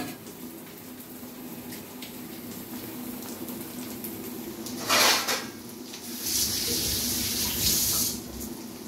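Fish roe and onions frying in oil in a kadai, a faint steady sizzle. About five seconds in there is a single sharp knock, and from about six to eight seconds a louder hissing rush.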